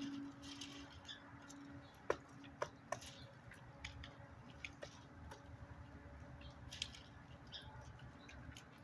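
Faint, short bird chirps with scattered light taps and clicks, and three sharper knocks about two to three seconds in.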